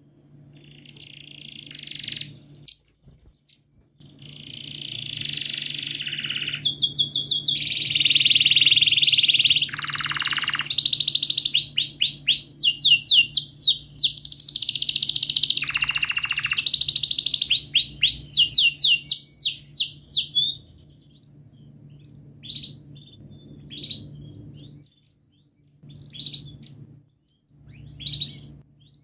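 Domestic canary singing a long, continuous song of buzzy held notes and fast rolling trills, then breaking off about two-thirds of the way in into a few short separate chirps. A steady low hum runs underneath.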